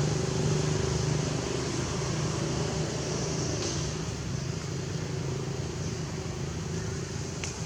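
Steady low engine hum, with a faint click about three and a half seconds in and another near the end.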